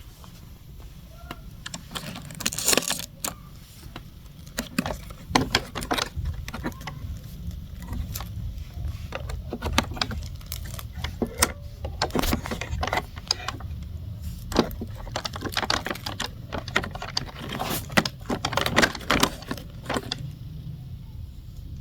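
Roomba i4 robot vacuum running, its low motor hum overlaid with irregular clicking and rattling: the 'funny noise' of a machine long neglected and clogged with dirt.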